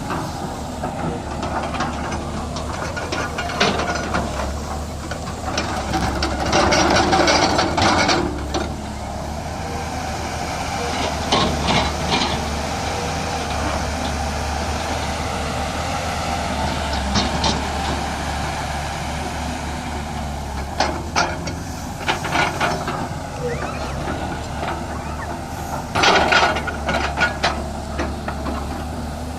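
Heavy diesel construction machinery running steadily with a low hum, swelling louder twice, with people's voices over it.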